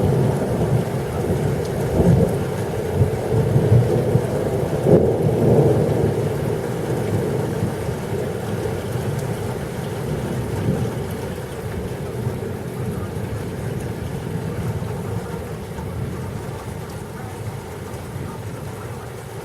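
Thunder rumbling over steady rain, with a few louder peaks in the first six seconds before the rumble slowly fades away.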